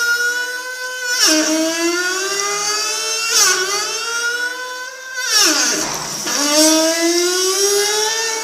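A high, engine-like whine made in a bathroom that imitates a Formula 1 car. Its pitch climbs slowly and drops sharply twice, like upshifts, then swoops down low and climbs back up about two-thirds of the way through.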